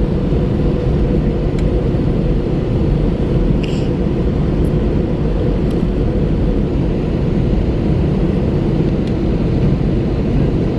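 Cabin noise aboard an Airbus A321 airliner: the steady, loud, low rumble of the engines and airflow as heard from a passenger seat, with a few faint clicks from the cabin.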